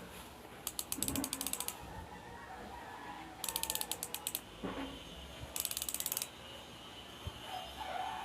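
Weapon Fever alloy bicycle rear hub's high-engagement freehub ratchet clicking very rapidly in three bursts as the unmounted hub freewheels.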